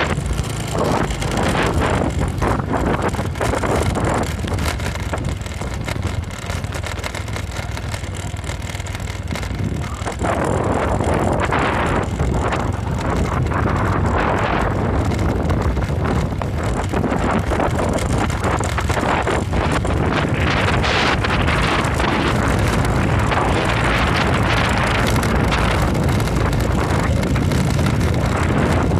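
Motorcycle engine running steadily while riding, with wind noise on the microphone. The wind rush grows louder about a third of the way in.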